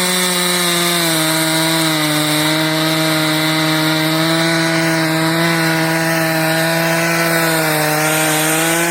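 Two-stroke chainsaw running at high speed and cutting into a tree trunk. Its pitch dips slightly under load about a second in and again near the end.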